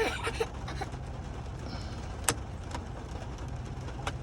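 Low steady hum of a truck idling, heard inside the cab, with two sharp clicks, one about two seconds in and a fainter one near the end.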